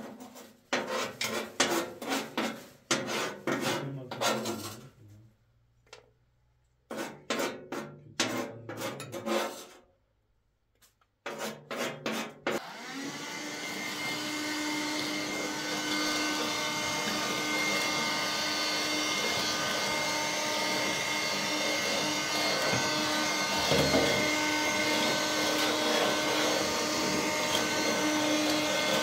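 Quick scraping and rubbing strokes in bursts, with two short pauses. About 13 seconds in, a vacuum cleaner is switched on, spins up over a couple of seconds and then runs steadily with a steady hum.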